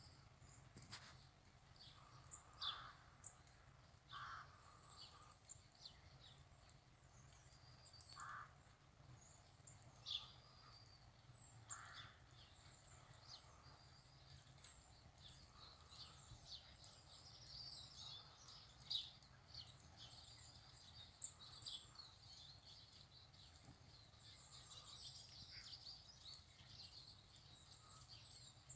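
Faint birdsong from several garden birds: many short high chirps and calls scattered throughout, with a few louder, lower calls in the first twelve seconds.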